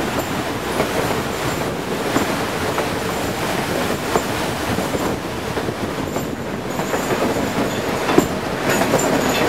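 Passenger train running on a mountain line, heard from aboard: a steady rumble and rattle of wheels on rails with scattered clicks, a faint high wheel squeal coming and going, and a sharper clack about eight seconds in.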